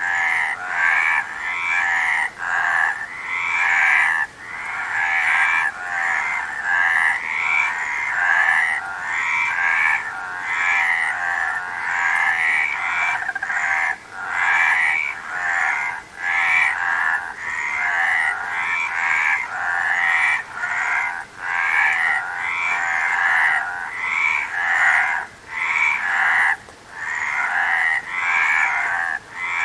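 A chorus of frogs croaking, calls overlapping and repeating about once or twice a second without a break.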